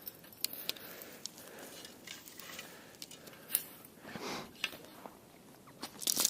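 Scattered light clicks, crunches and rustling from tent pegs being handled and gathered, with movement on the ground; a sharper click comes about three and a half seconds in and a louder rustle near the end.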